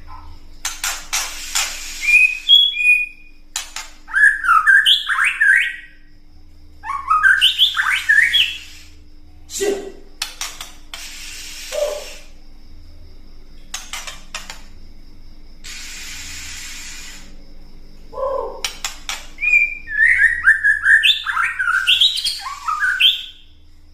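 White-rumped shama (murai batu) calling in several bouts: harsh rattling ketrekan chatter and buzzy hissing stretches mixed with quick whistled song phrases, with short pauses between bouts.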